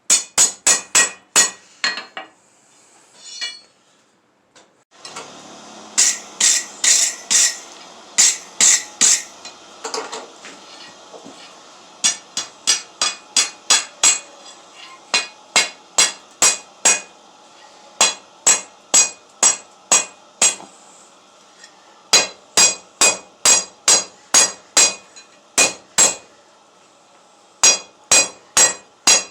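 Blacksmith's hand hammer forging steel on an anvil, in runs of about two ringing blows a second with short pauses between runs. A steady hum comes in about five seconds in.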